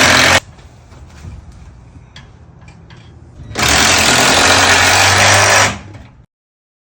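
A power tool runs in two bursts, a short one ending about half a second in and a longer one of about two seconds starting about three and a half seconds in.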